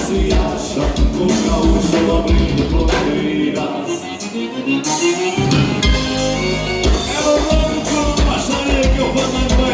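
Live gaúcho dance band playing with singing over a steady beat. About three and a half seconds in, the bass and drums drop out briefly under a rising run, then the full band comes back in.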